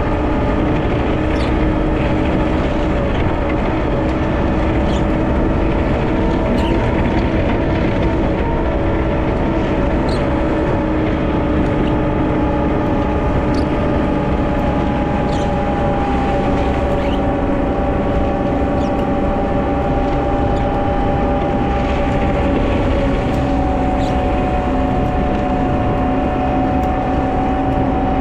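Wheel loader's diesel engine running steadily under load while plowing snow, its pitch easing slightly lower about halfway through, with faint scattered ticks.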